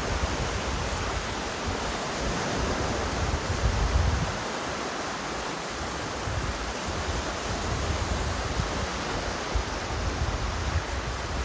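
Steady outdoor rushing noise with irregular low rumbling swells, strongest around four seconds in.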